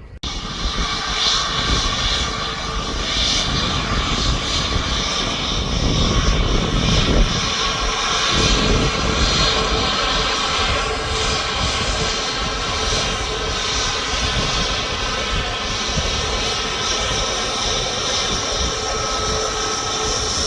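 TUI jet airliner landing, its engines giving a steady whine over a rushing noise. The sound begins abruptly, swells to its loudest about seven seconds in, then holds steady.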